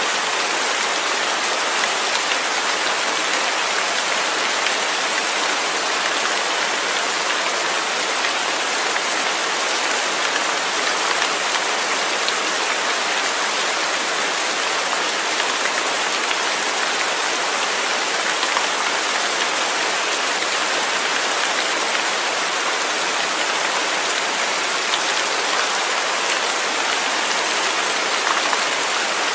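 Steady rain falling, a dense even hiss of drops striking a surface with fine individual drop ticks.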